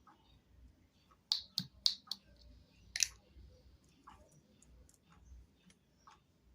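A series of sharp clicks from an object being handled: four close together about a second in, another loud one about three seconds in, and fainter ticks in between.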